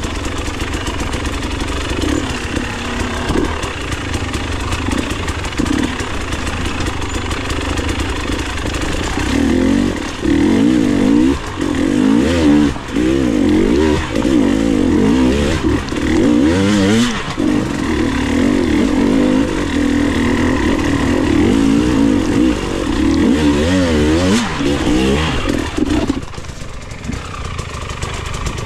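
Enduro dirt bike engine running, steady at first, then revved up and down in quick repeated waves for about fifteen seconds, settling lower near the end.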